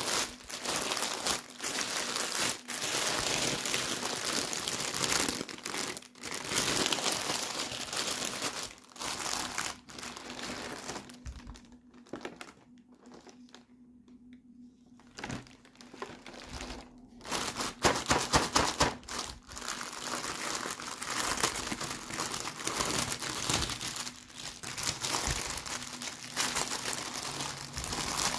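Toy packaging crinkling and rustling under hands in stop-start bursts, with a few quieter seconds about halfway through.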